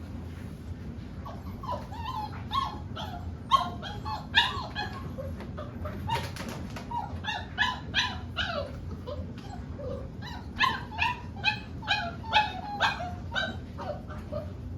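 Boerboel puppies whining and yipping: many short, high, falling cries several times a second, in three clusters.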